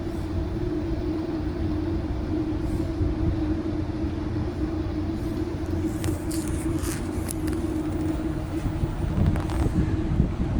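Steady low mechanical rumble with a constant hum throughout, and a few brief faint clicks and hisses about six to seven seconds in.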